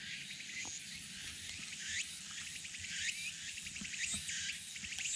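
Insects calling: a high rising sweep repeats about once a second over a steady chirring, with a few faint ticks.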